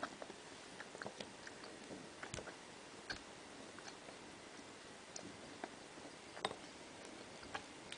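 Close-up mouth sounds of someone chewing gummy bears: soft, sharp wet clicks and smacks, irregularly spaced, over a faint steady hiss. The loudest click comes about six and a half seconds in.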